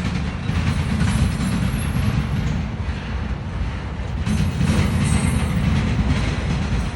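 CSX freight cars rolling slowly past: a steady rumble of wheels on rail with irregular clicks from the rail joints and faint, brief high wheel squeals now and then.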